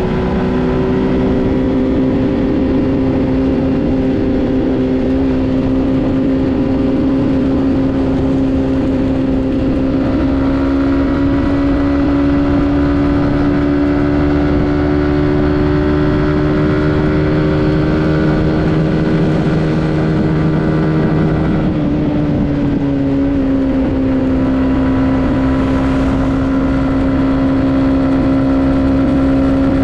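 Suzuki GSX-S150's single-cylinder engine running while the motorcycle is ridden, heard from the rider's position. The engine note climbs slowly for several seconds, drops about two-thirds of the way through, then holds steady.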